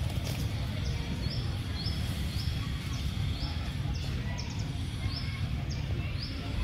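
A bird chirping over and over, short high chirps coming about once or twice a second, over a steady low rumble.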